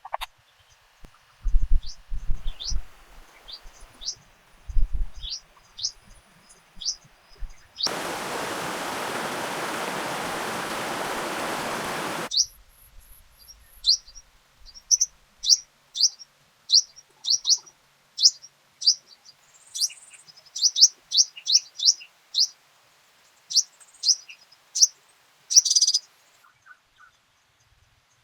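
A small bird chirps over and over, in short, high, quick notes that fall in pitch, several a second in places. Early on there are a few low thumps, and about a third of the way in a steady rushing hiss runs for about four seconds and then cuts off.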